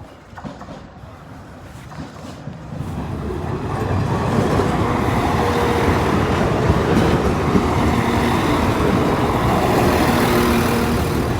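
A Northern Ireland Railways diesel train passing close by. Its running noise grows louder over the first few seconds, then holds steady.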